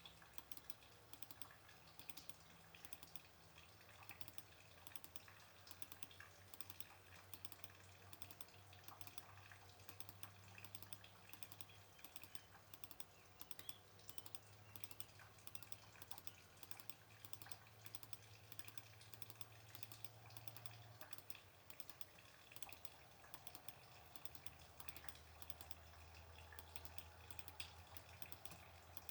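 Faint, rapid, irregular clicking throughout, over a low steady hum that shifts in pitch about two-thirds of the way in.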